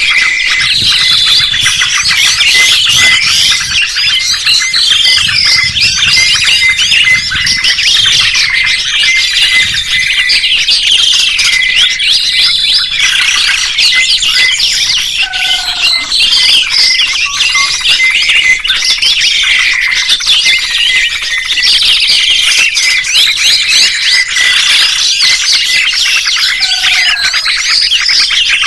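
Songbird song: dense, rapid chirping and twittering with quick rising and falling whistled notes that never stop, and a lower falling call twice, about halfway through and near the end.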